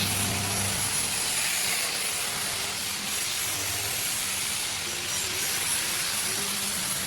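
Steady hiss of compressed air from a spray-paint gun, with a low hum that comes and goes.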